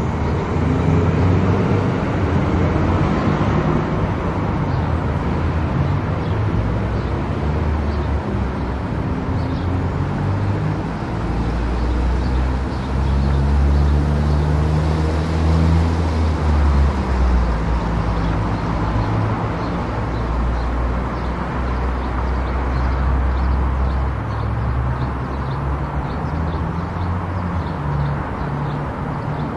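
Car driving on a highway: steady road and tyre noise with an engine hum that shifts up and down in pitch.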